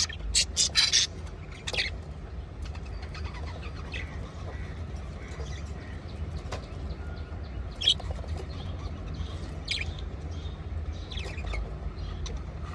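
Budgerigars chirping: a quick run of sharp chirps in the first couple of seconds, then only an occasional single chirp, over a steady low hum.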